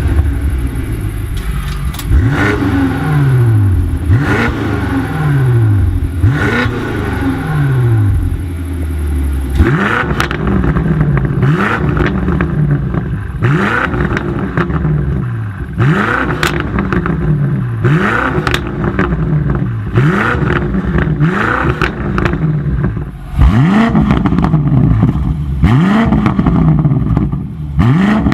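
BMW M5 F90's twin-turbo 4.4-litre V8 through an Akrapovič exhaust, revved over and over, about every two seconds. Each rev jumps up quickly and sinks back slowly, with sharp pops from the exhaust between revs.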